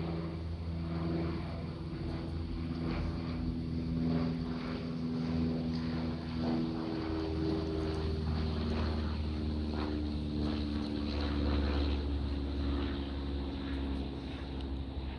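Propeller aircraft engine droning overhead, a steady low hum made of several tones that shift a little in pitch partway through.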